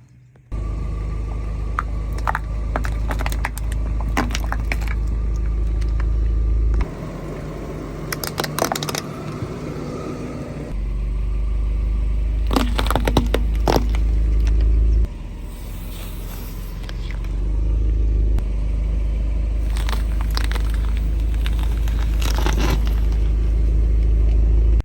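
A car's low engine and tyre rumble as it rolls over objects, with clusters of sharp crunching and crackling as they are crushed under the wheels. The rumble cuts in and out abruptly several times.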